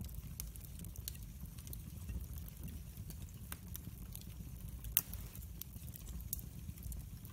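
Wood fire in a fireplace crackling: irregular sharp pops and snaps over a steady low rumble, with one louder pop about five seconds in.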